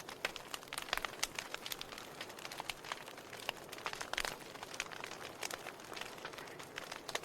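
Burning firewood crackling and popping: irregular sharp snaps over a steady soft hiss of the flames.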